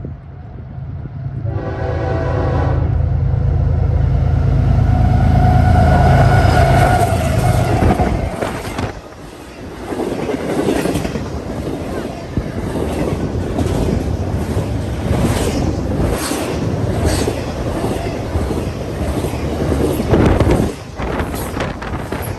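A train passing close by. A diesel locomotive sounds its horn briefly about a second and a half in while its engine rumbles past, and from about eight seconds in the cars roll by with a steady clatter of wheels over the rail joints.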